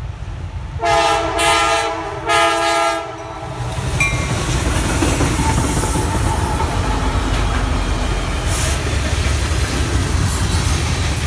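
A freight train's lead diesel locomotive sounds its multi-note air horn in two blasts, a longer one then a shorter one. The locomotives and cars then pass close by, with a loud, steady diesel rumble and the clatter of steel wheels on the rails.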